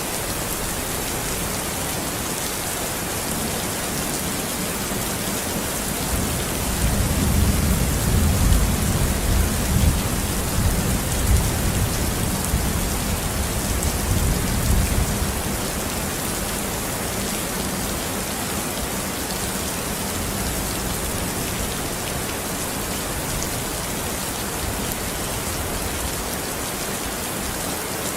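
Steady rain falling, an even hiss throughout. A low rolling rumble of thunder rises about six seconds in and fades away about ten seconds later.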